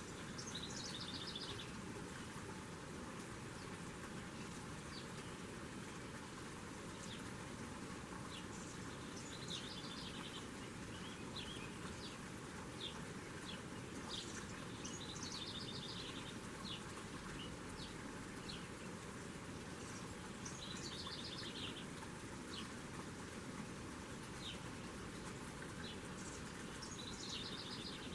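A songbird singing a short, rapid trilled phrase about every five to six seconds, five times in all, with single short chirps in between, over a steady background hiss.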